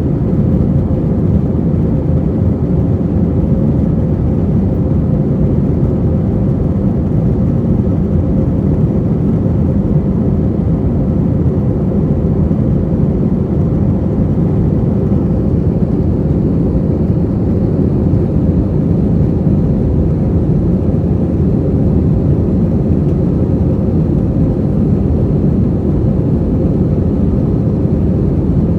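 Steady low roar of an Airbus A321's jet engines and rushing air, heard inside the passenger cabin.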